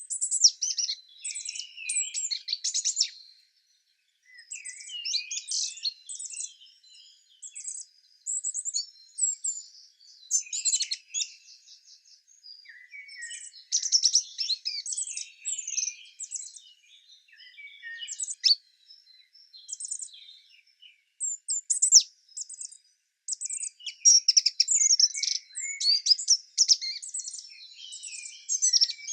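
Small birds chirping and twittering in quick, high-pitched phrases, several calls overlapping, coming and going in bursts with short gaps, busiest near the end.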